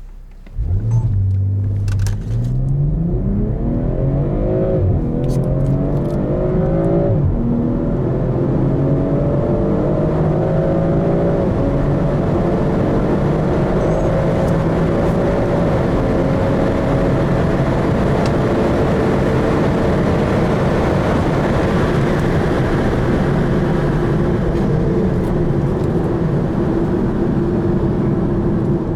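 BMW M340i's 3.0-litre turbocharged straight-six under full-throttle acceleration from a standstill. The revs climb and drop back at quick upshifts about five and seven seconds in, then the engine pulls in one long, slow rise.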